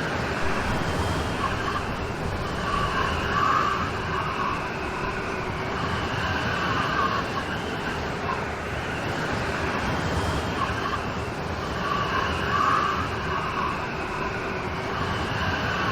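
Steady heavy rain falling in a constant hiss, swelling slightly twice.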